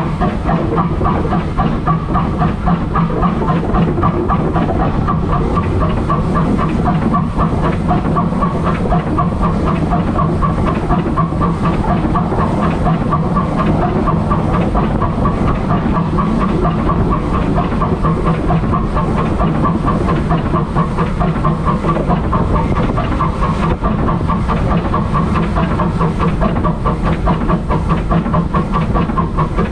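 Train running steadily along the line, with a continuous rumble and wheel clatter and some hiss.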